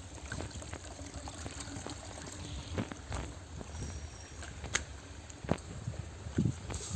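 Water trickling in a stream, with scattered sharp crackles and knocks throughout.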